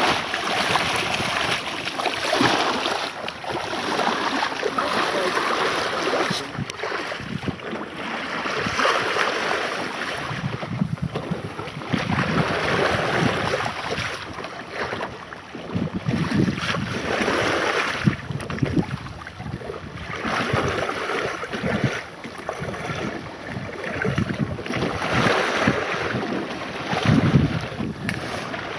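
Water rushing and splashing along a sailboat's hull as it moves under sail, swelling and easing every few seconds with the waves, with wind buffeting the microphone.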